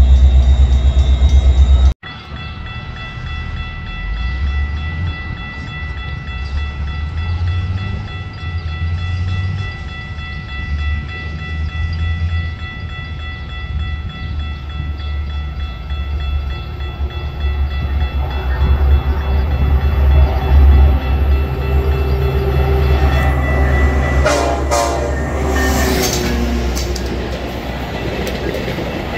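Metra commuter train: a loud close-by train sound cuts off about two seconds in. Then a diesel-hauled train is heard approaching with a low rumble and steady tones, growing louder until it pulls past with wheel and brake squeal and the bilevel coaches rumbling by near the end.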